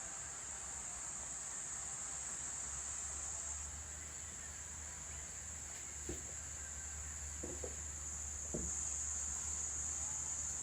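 A steady, high-pitched insect chorus drones without a break, with a few soft short clicks about six, seven and a half and eight and a half seconds in.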